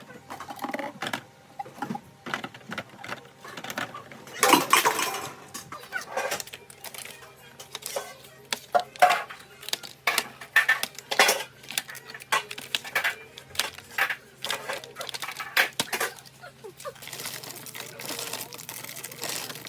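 Food containers, jars and bottles being handled and set down while a refrigerator is reorganized: irregular clinks and knocks, some louder than others, over a faint steady low hum, with rustling near the end.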